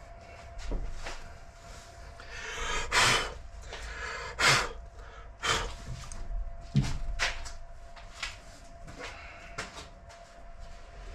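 Knocks and clatter from objects being handled and set down, with bursts of rustling and sliding between them. A faint steady hum runs underneath.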